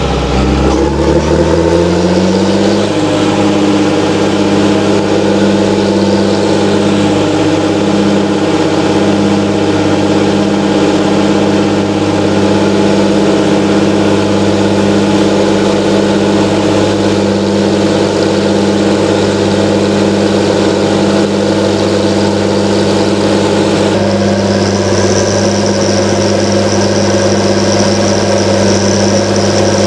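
John Deere 7920's 8.1-litre six-cylinder diesel engine running at steady speed. Its pitch dips and climbs back in the first couple of seconds, and a high whine joins about three-quarters of the way through.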